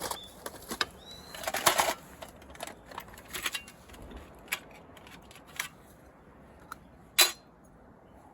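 A scattering of sharp clicks and knocks at irregular intervals, the loudest a cluster about two seconds in and a single knock about seven seconds in, with a couple of faint, short, high rising bird chirps near the start.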